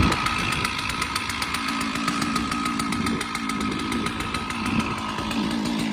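Chainsaw engine running steadily at an even speed, without revving up or down.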